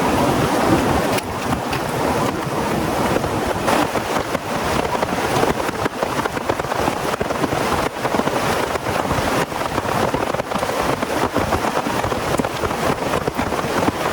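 Heavy rain falling steadily, a dense hiss with many separate drops tapping close by.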